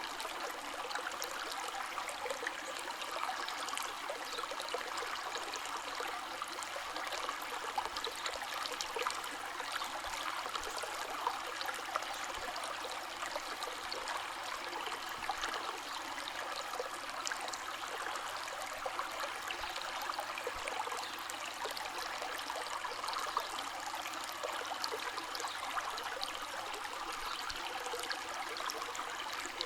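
River water flowing steadily over stones, babbling and trickling with many small splashes.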